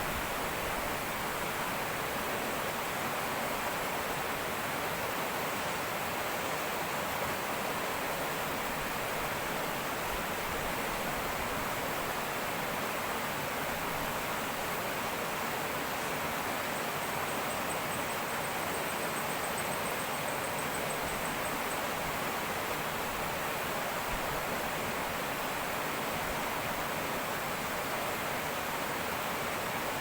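Fast-flowing river water rushing and babbling over rocks, a steady even rush. A faint high-pitched insect trill joins for about five seconds in the middle.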